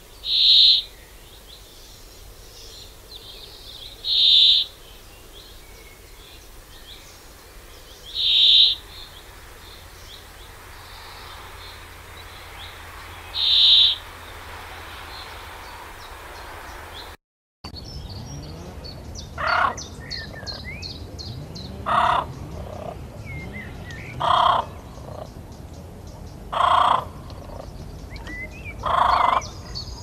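Bird calls. In the first half a loud, high call comes four times, about every four seconds. After a sudden cut, a different call repeats about every two and a half seconds over faint, quick, high chirps of small birds.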